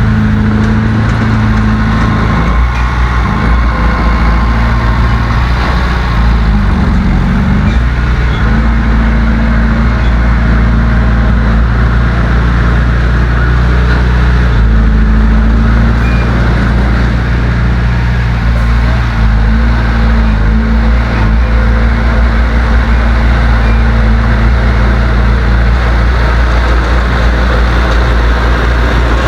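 Heavy earthmoving machine's diesel engine running loud and steady under load, its pitch dipping and rising again about six to eight seconds in.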